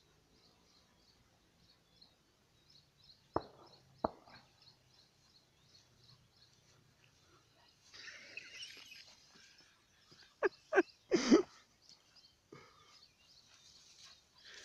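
Quiet outdoor field ambience with a bird chirping faintly in a regular high-pitched series. Two sharp knocks come about three and four seconds in, then a short noisy patch around eight seconds. A cluster of louder thumps around eleven seconds in is the loudest sound.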